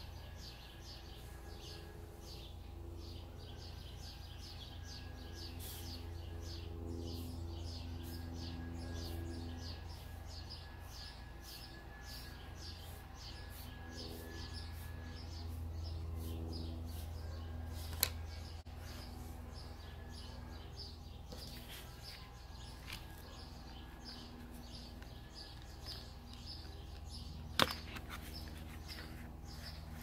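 Birds chirping again and again over a steady low outdoor hum, with two sharp taps: one a little past the middle and a louder one near the end.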